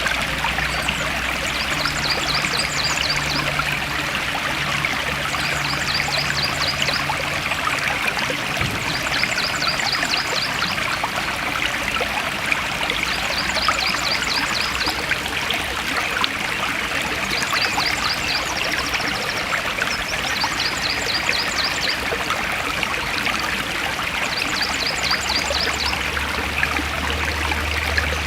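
A forest stream flowing and splashing steadily. A short, high trill of rapid chirps repeats every two seconds or so over the water.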